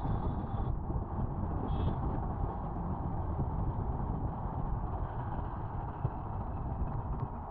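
Steady wind and road rumble from riding a scooter, with a faint brief high tone about two seconds in.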